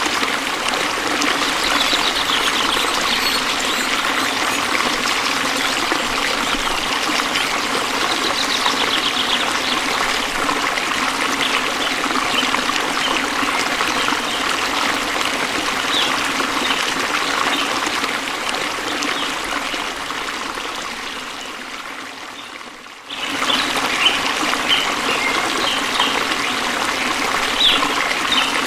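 Waterfall's falling water, a steady splashing rush. It fades down about twenty seconds in and cuts back in abruptly a few seconds later.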